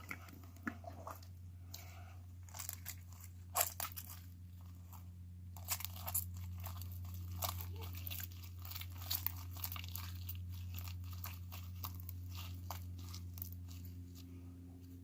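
Slime being squished and stretched by hand, giving irregular sticky clicks and crackles, over a steady low hum.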